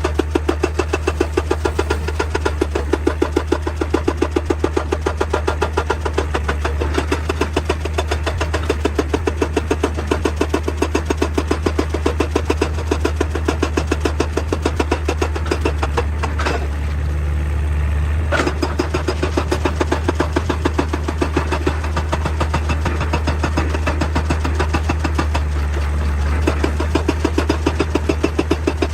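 Excavator's hydraulic rock breaker hammering in a fast, even stream of blows over the steady drone of the diesel engine. The hammering stops for about two seconds past the middle, with a sharp click as it stops and another as it starts again.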